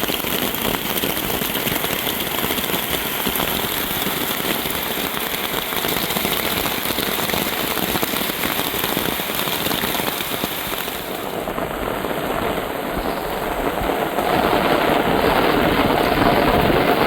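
Heavy rain falling, a dense crackling patter of drops that grows louder about three-quarters of the way through.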